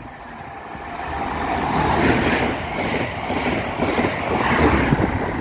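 Class 43 HST diesel train passing close along the platform: engine and wheel-on-rail noise build from about a second in and stay loud as the train goes by.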